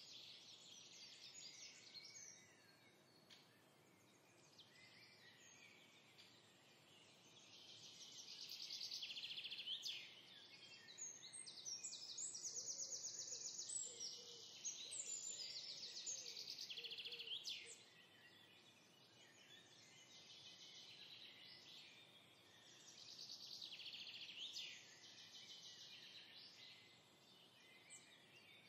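Faint birds chirping and trilling in the background, in stretches that come and go, loudest through the middle.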